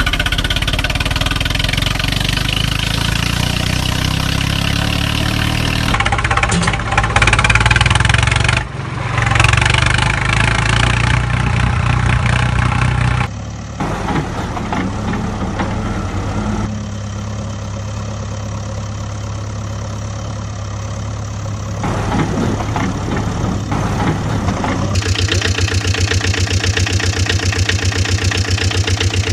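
Vehicle engine sounds, idling and revving, that switch abruptly to a different engine sound several times; a fast, even chugging fills the last few seconds.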